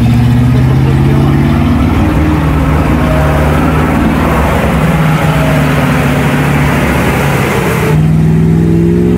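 The turbocharged Lada Niva's engine is held at high revs under load, with a loud rushing noise over it. The rushing noise stops abruptly about eight seconds in, leaving a steadier engine note.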